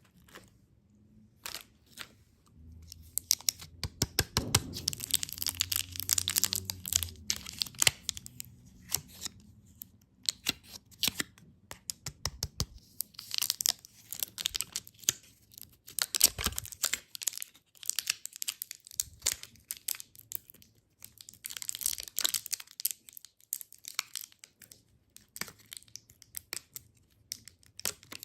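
Plastic candy wrappers and packaging being torn open and crinkled by hand, in repeated spells of sharp crackling with quieter gaps between.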